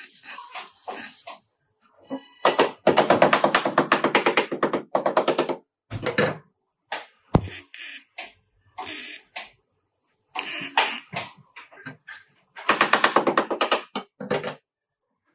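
A power tool hammering in several bursts of rapid, evenly spaced strikes, about a dozen a second, with short pauses between them and a single sharp click about halfway through.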